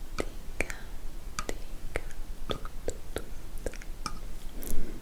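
ASMR mouth sounds close to the microphone: many wet clicks of lips and tongue at an irregular pace, with a louder breathy, whisper-like puff near the end.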